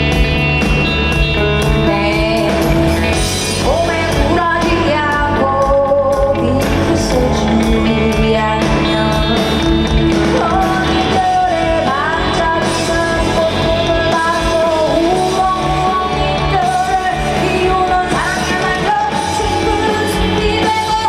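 Live band music with a woman singing a powerful lead vocal over it.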